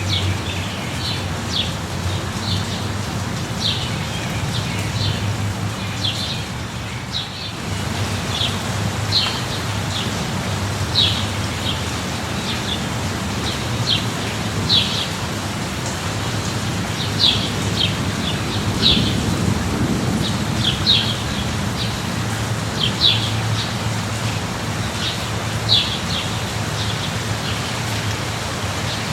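Steady light rain falling, with a bird's short high chirps repeating every second or so and a low steady rumble underneath.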